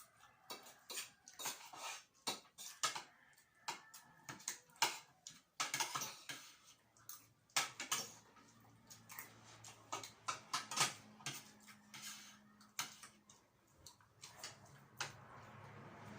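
Cutlery clinking and scraping against plates while people eat: many quick, irregular clinks, with a faint low hum in the middle.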